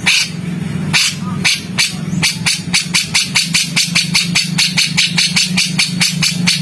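Songbird repeating harsh, rapid ticking "shot" notes, about five short strikes a second, over a steady low hum.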